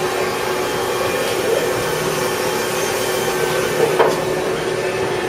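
Steady machine drone with a constant hum, and a single short knock about four seconds in.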